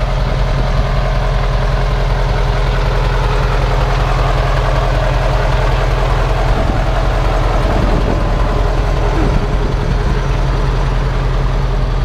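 Scania 142's 14.2-litre V8 turbodiesel truck engine idling steadily, with a deep, even low rumble.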